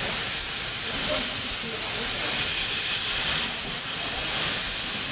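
Steam locomotive No.8, a narrow-gauge 2-6-2 tank engine, hissing steam steadily without any exhaust beat.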